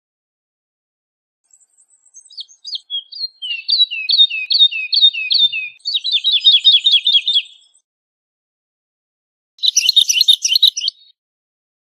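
Woodlark singing: a phrase of repeated high, sliding, falling notes that speeds up into a fast run of notes, then after a pause a short burst of rapid notes near the end.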